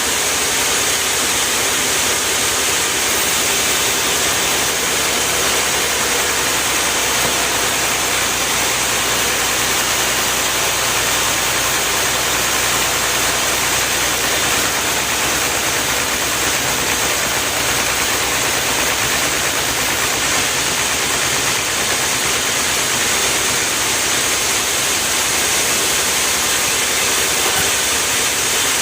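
An engine-driven machine running steadily, heard as a constant hissing noise with no breaks and no change in speed.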